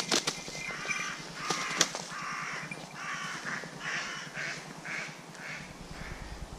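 A bird giving a run of harsh, caw-like calls, about two a second, with a few sharp clicks in the first two seconds.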